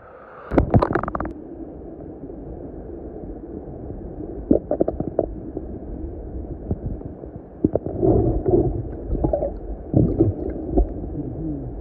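Muffled underwater sound of river water picked up by a submerged camera: a steady low rush with scattered knocks and bumps, busier from about eight seconds in.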